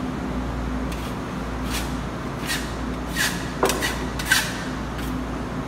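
Steel spatula spreading the first coat of burnt-cement effect paste across a wall: about eight short scraping strokes, the sharpest a little past the middle.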